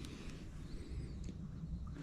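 Faint, short bird chirps over a steady low rumble of outdoor noise, with a couple of light clicks.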